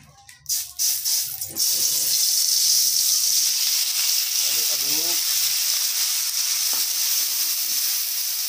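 Hand-ground spice paste hitting hot oil in a wok and sizzling. It starts about half a second in, with a few sharp spits as the paste goes in, then settles into a steady, loud frying hiss while it is stirred with a spatula.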